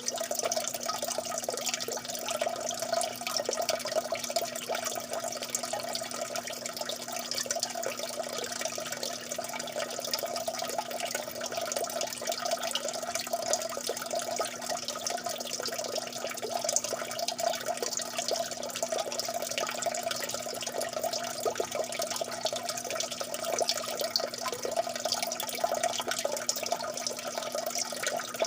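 Water drops falling steadily into water, a dense, unbroken patter of small drips and splashes, with a faint steady low hum underneath.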